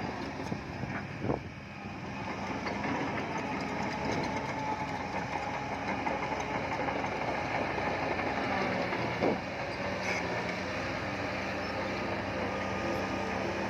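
Heavy diesel earthmoving machinery running steadily, with a few short metallic knocks.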